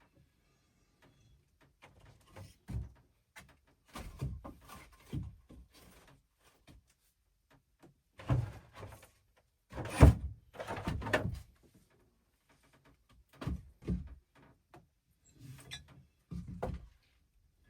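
Irregular knocks and thumps of hard objects being handled and set down, in small groups. The loudest comes about ten seconds in.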